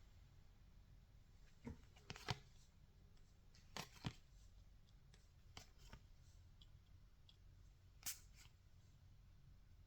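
Trading cards being handled: faint, separate flicks and slides of cards a second or more apart, the loudest about two seconds in.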